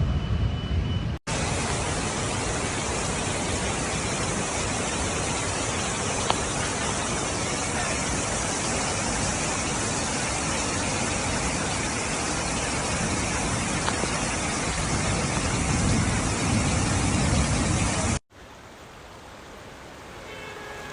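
Heavy downpour: a steady, dense hiss of rain and running water, cut in abruptly about a second in and cut off suddenly near the end, where a much quieter hiss follows.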